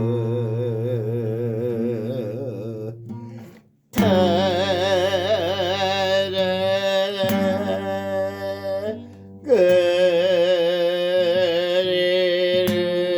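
A singer holding long, slow notes with wide vibrato in three drawn-out phrases, broken by short pauses about 4 s in and about 9 s in, over acoustic guitar.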